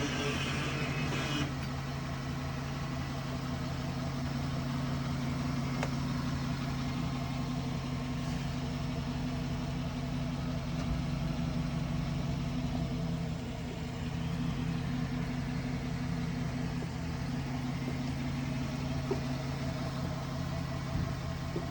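Chevrolet Silverado pickup's engine idling steadily with a low, even hum. A higher-pitched whine over it stops about a second and a half in.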